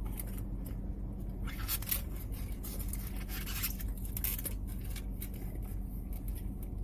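A person chewing a mouthful of cinnamon roll, with soft mouth clicks and scraping sounds and two longer rustly stretches, over a steady low hum.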